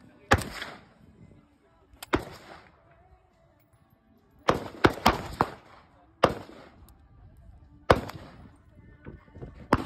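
Gunshots at a shooting range: about eight single shots at irregular intervals, several in a quick cluster near the middle, each with a brief echo.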